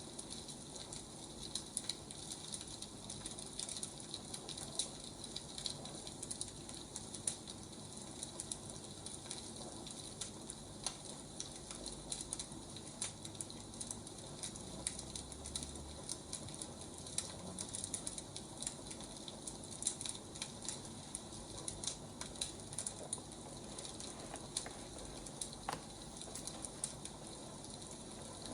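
Wood fire crackling: many small sharp pops and snaps over a steady hiss.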